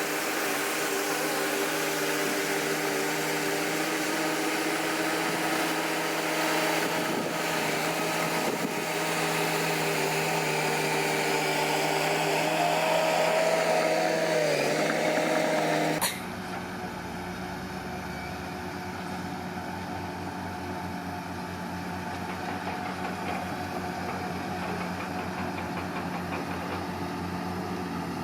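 Komatsu D41P bulldozer's diesel engine running hard, with a dense mechanical noise over its steady note and a brief dip in pitch about 15 seconds in. About 16 seconds in the sound cuts abruptly to a quieter, steadier engine running.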